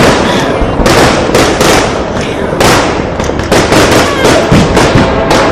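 Fireworks display: a dense, unbroken string of loud bangs and crackling bursts, several a second.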